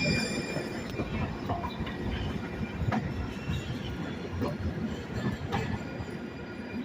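Railroad cars rolling past on the track, a steady low rumble with wheel clicks over the rail joints at uneven intervals and a faint high wheel squeal fading just after the start.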